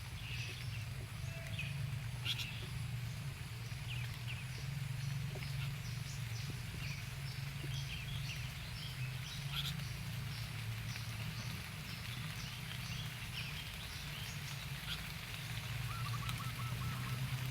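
Small birds cheeping: short, high chirps repeated irregularly, with a brief trill near the end, over a low steady hum.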